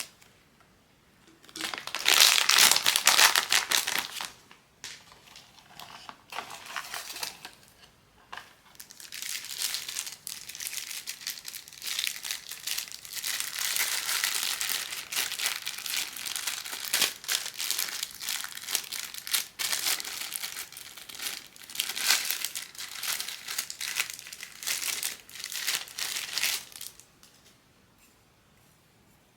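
Plastic wrapping of a blind-box toy crinkling as it is handled and unwrapped by hand. There is a loud burst about two seconds in, then a long stretch of steady crinkling that stops shortly before the end.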